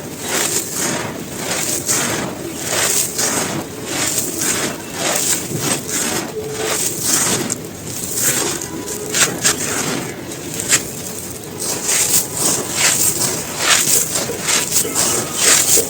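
Dry, gritty crumbly cones being crushed and crumbled, a continuous run of crisp crunches and crackles, several a second and uneven.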